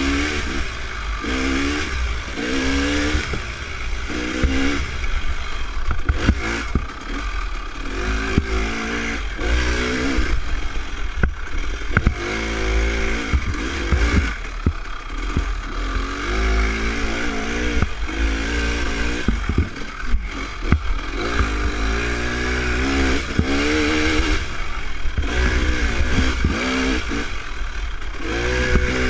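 Dirt bike engine revving up and falling back over and over as the bike is ridden slowly along a trail, over a heavy low rumble and with frequent sharp clattering knocks.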